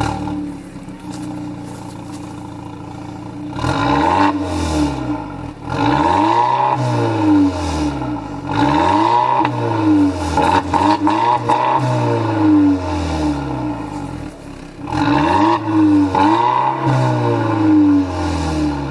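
Volvo XC60 T6 engine with a Polestar Performance Parts exhaust: it fires up and settles to a steady idle, then is blipped about seven times. Each rev rises and falls back, and the exhaust note swells with every blip.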